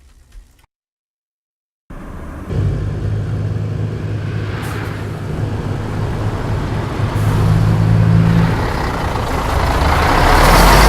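Heavy truck engine running with road noise, starting abruptly about two seconds in after a moment of silence, with a steady low engine hum and growing louder near the end.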